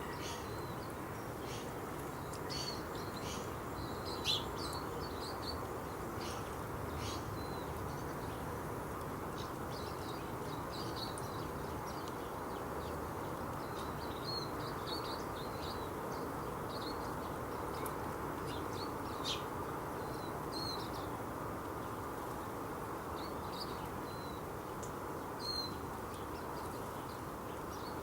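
Small birds chirping, short high calls scattered throughout, over a steady outdoor background hiss.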